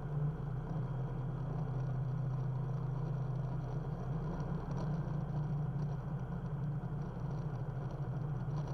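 Steady drone of the SuperSTOL's Rotax engine and propeller heard inside the cockpit in flight: an even low hum that does not change.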